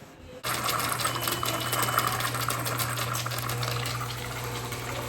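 Water rushing through a plumbing fixture, starting abruptly about half a second in and running steadily, with a steady low hum underneath.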